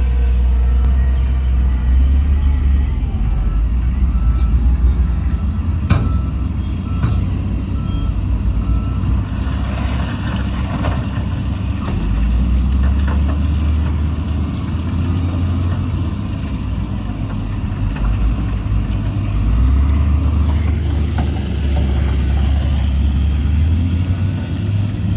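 Heavy diesel engines of a dump truck and bulldozer running, with a deep steady rumble that swells and eases. A reversing alarm beeps evenly for several seconds, then stops, and a steady hiss runs for about ten seconds in the middle.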